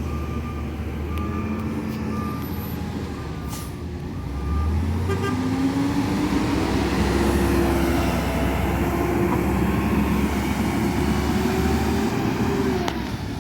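Garbage truck's reversing beeper sounding in an even series over its diesel engine; about four to five seconds in the beeping stops and the engine revs up and holds high, rises again later and falls back near the end, with a sharp click just before it.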